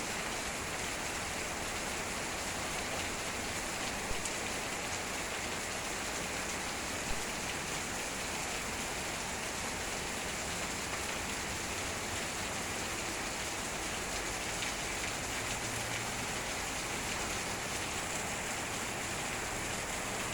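Heavy rain falling steadily, a dense even hiss of drops on hard surfaces with a few sharper individual drop hits.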